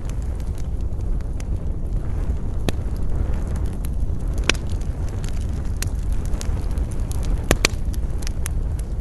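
Wood fire crackling, with scattered sharp pops (the loudest about halfway and two close together near the end), over a steady low rumble of wind.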